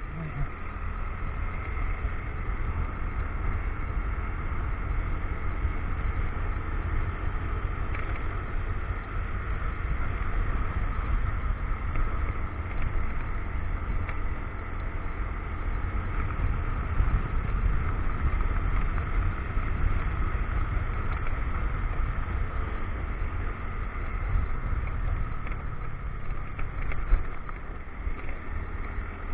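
Motorcycle riding at a steady pace: the engine runs steadily under a constant low wind buffeting on the action camera's microphone.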